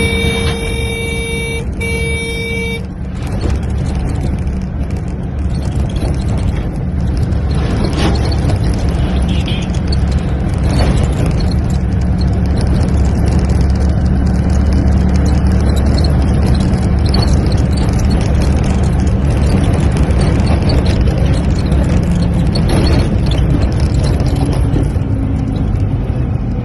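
Steady low rumble of a motor vehicle or road traffic. At the start, a pitched horn-like tone sounds twice in close succession.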